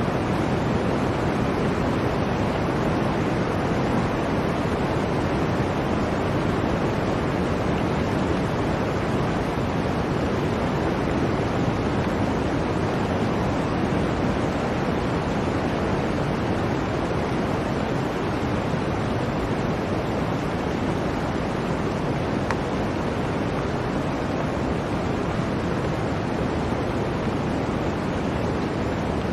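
Blizzard wind: a steady, even rush of noise with no gusts, breaks or other events.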